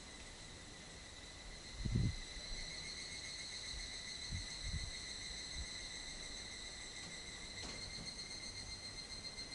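Insects trilling in a steady, continuous high drone, with a few short low thumps, the loudest about two seconds in.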